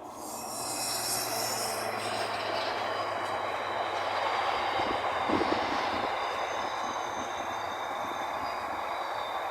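A train passing close by on the line: its wheel and rail noise rises over the first second, then runs on steadily, with a brief clatter about five seconds in.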